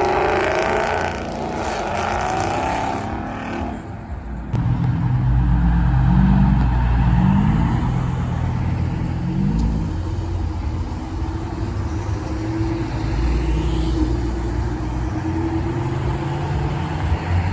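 Sports car engine accelerating hard as it leaves, its pitch climbing and dropping back several times through the gears, with an abrupt change in the sound about four seconds in.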